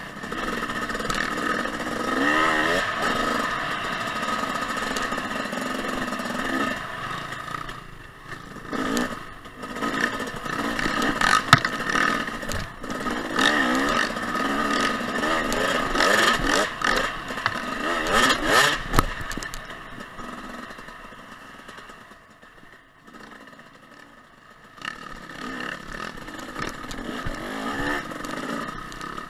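Two-stroke 2014 Husqvarna TC 250 dirt bike engine riding a trail, its pitch rising and falling with the throttle. A few sharp knocks sound midway, and the engine drops off to a quieter spell for a few seconds in the latter part before picking up again.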